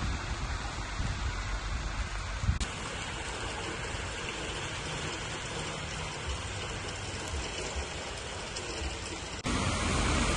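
Steady rain falling on a wet street and on cars, a constant hiss and patter. The sound changes abruptly twice. Near the end it becomes louder, with a low rumble.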